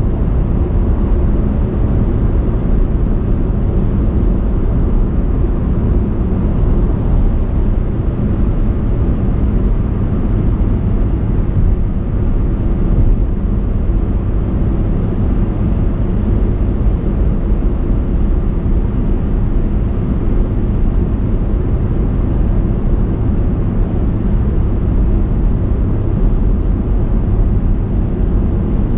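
A car driving at a steady pace: a constant low hum of engine and tyre noise with no changes.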